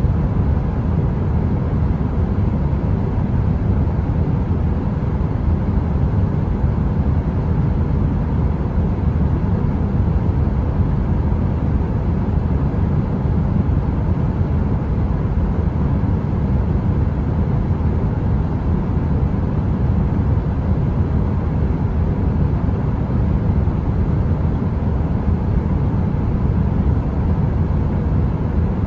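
Space heater running: a steady, even noise heaviest in the low end, with a faint hum over it and no crackle.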